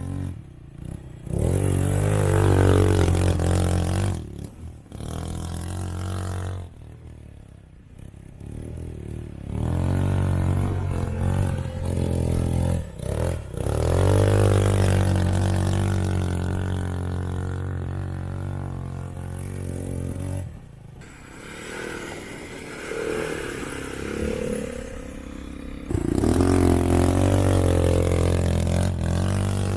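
ATV (quad bike) engines running and revving, the engine note rising and falling as the bikes pass and accelerate, swelling loud several times.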